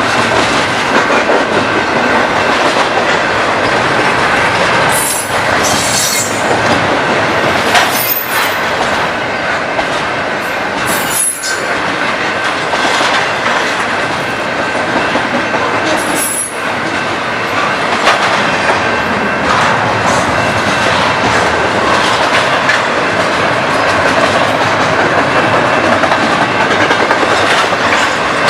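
Railcars rolling past close by: a steady rumble of steel wheels on the rails with clickety-clack over the joints, a thin steady wheel squeal over it, and a few sharp clanks around five, eight, eleven and sixteen seconds in.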